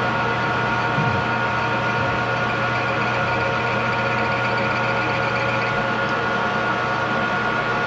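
Metal lathe running steadily, its motor and gears giving a constant hum and whine while it turns a step in a brass-or-steel part.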